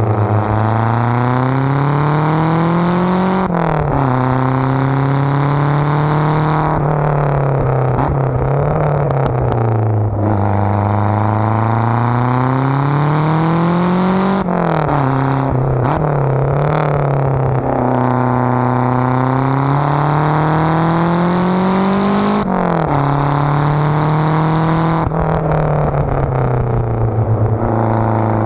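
Lancia Delta engine being driven hard: the revs climb and then drop sharply at each gear change, several times over, with a stretch of fairly steady revs in the middle.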